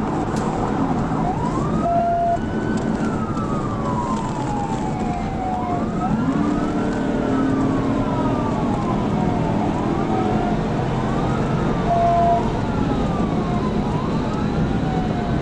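Police cruiser siren in wail mode, sweeping slowly up and then down about four times, over the steady road and engine noise of the cruiser at pursuit speed.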